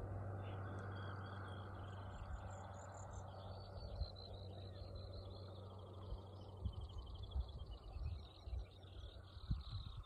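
Birds singing, a series of quick repeated high chirping notes, over a steady low background noise with a few low thumps in the second half.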